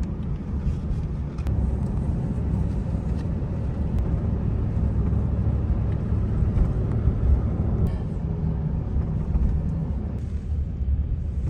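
Steady low rumble with a rushing noise over it, like a vehicle in motion.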